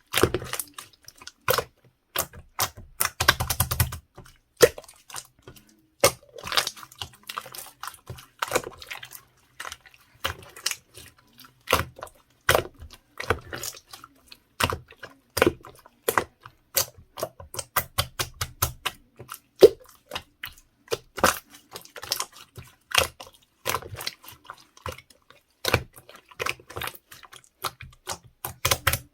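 Hands squeezing and folding mixed slime, making an irregular stream of sharp clicks and pops several times a second, with short crackling runs in places.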